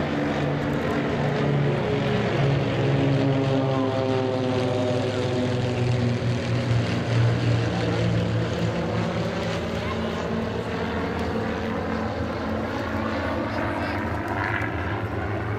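Formation of Beechcraft Bonanza single-engine piston airplanes flying past, engines and propellers droning steadily, with the pitch dropping about midway as the aircraft go by.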